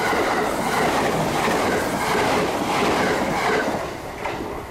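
Limited express electric train passing through a station at high speed: a loud rushing noise with a beat repeating every second or less, dropping away about four seconds in as the last car goes by.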